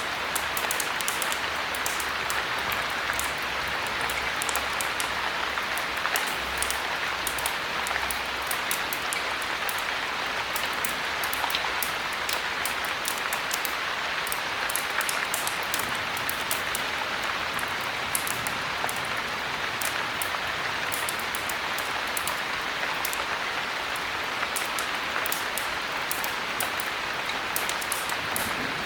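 Heavy rain falling steadily, with the frequent sharp crackle of a wood fire in a fireplace over it.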